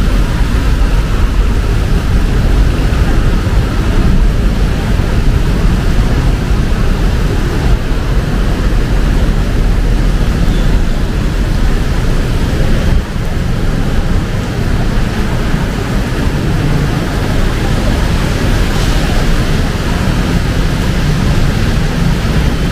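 Heavy rain pouring down in a dense, steady hiss, with a low rumble of city traffic under it.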